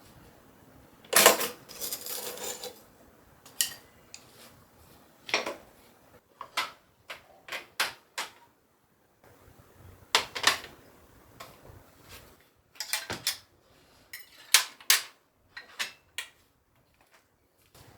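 Kitchen items being handled and set down on hard surfaces: an irregular series of knocks, clicks and clinks, the loudest a clatter about a second in.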